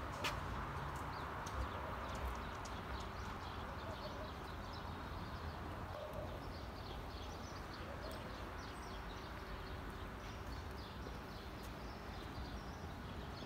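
Small birds chirping in quick repeated runs, busiest in the middle stretch, over a low steady street hum. A few sharp ticks of footsteps on pavement stand out now and then.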